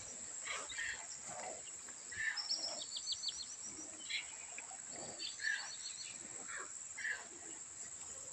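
A bird chirping in two quick runs of short high notes, about three seconds and five and a half seconds in, over a steady high hiss.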